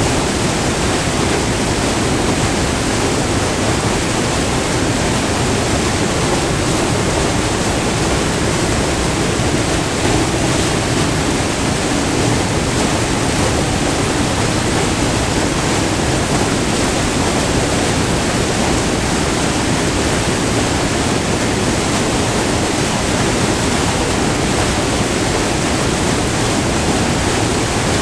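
Multi-tiered river waterfall: white water rushing over the rocks in a steady, loud, unbroken roar.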